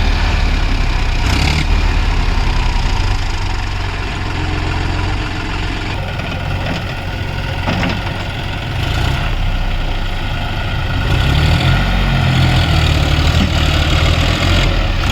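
Heavy diesel engine running steadily under load, getting louder from about eleven seconds in.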